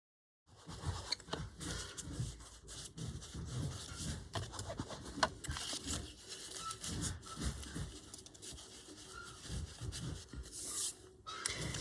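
Paper edges being inked by rubbing an ink applicator along them: irregular scuffing and scraping with small clicks, starting about half a second in.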